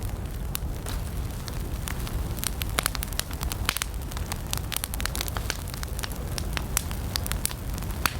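Wood campfire burning, with frequent sharp crackles and pops scattered over a steady low rumble of the flames.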